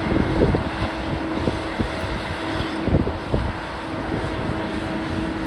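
Demolition machinery engine running steadily, with irregular knocks and crunches scattered through it, and wind on the microphone.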